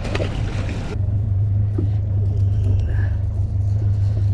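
Boat engine running steadily under way, a low even drone. A broader hiss over it in the first second cuts off abruptly.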